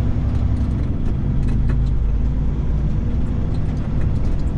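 Caterpillar 3406E inline-six diesel engine of a Freightliner FLD120 running steadily at low speed, heard from inside the cab.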